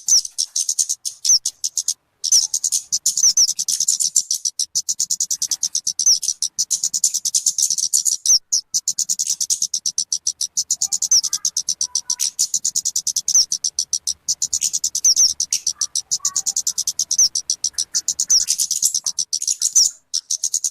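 Talokan (kemade) bird song: a fast, continuous run of high, sharp chirps, many per second, broken by brief pauses.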